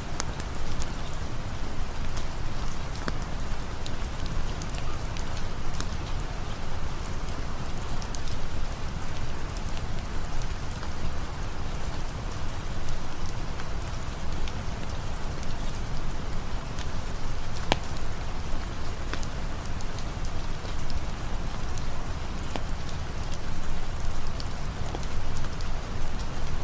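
Steady rain falling, an even hiss with scattered faint sharp ticks and one louder click about two-thirds of the way through.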